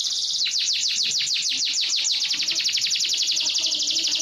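Domestic canary singing: a dense high buzzing roll breaks about half a second in into a fast trill of repeated descending notes, about ten a second.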